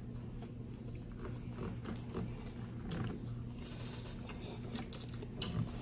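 Two people eating fried fish and spaghetti, close to the microphone: scattered small clicks and mouth smacks of chewing over a faint steady low hum.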